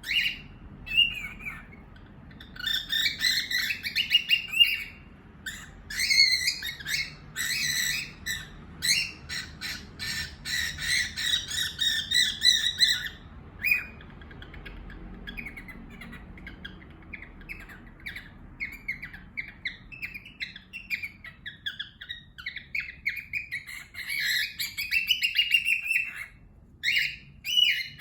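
Pet cockatiels and a budgie chirping and chattering in quick runs of short calls. The calls are loudest and densest in two long spells, with softer, sparser chirps in between.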